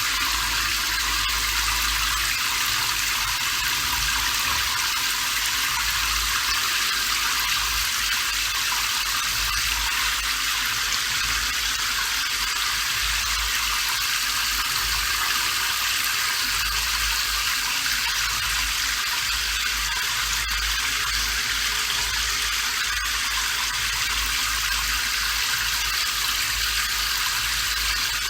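Steady rain falling: an even, continuous hiss with a faint low rumble beneath it.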